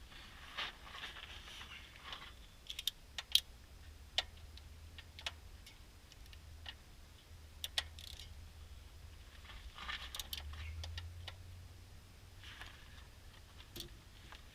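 Scattered light clicks and clinks with a little rustling, as hand tools such as a socket and a wrench are handled and set down.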